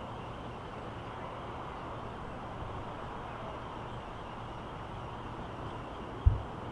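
Steady rushing jet noise of a British Airways Airbus A380 on approach to land, at an even level. A single sharp low thump about six seconds in.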